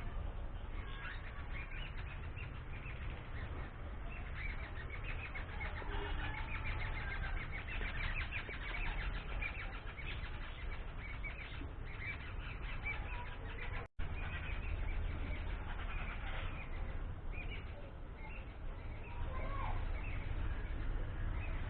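Many small birds chirping and calling in quick, overlapping notes, over a steady low rumble; the sound cuts out for an instant about two-thirds of the way through.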